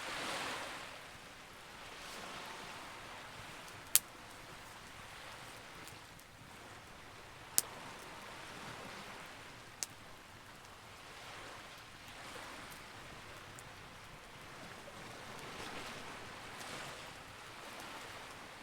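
Campfire burning, with three sharp pops from the wood over a soft, steady crackle, against a background wash that swells and fades every few seconds like surf.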